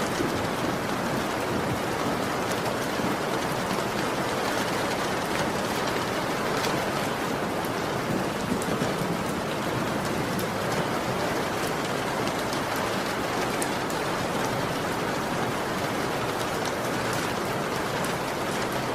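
Heavy rain falling steadily, an even hiss with the ticks of single drops hitting a surface.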